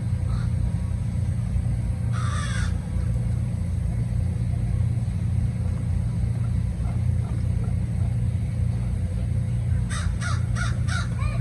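A bird calls once about two seconds in, then four quick calls come near the end, over a steady low rumble.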